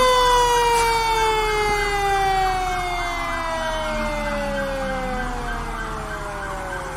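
Fire truck siren winding down, its pitch falling in one long slow glide.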